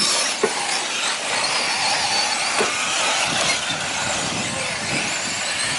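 Radio-controlled 4WD short course race trucks running on the track: a steady noisy mix with thin motor whines that rise and fall.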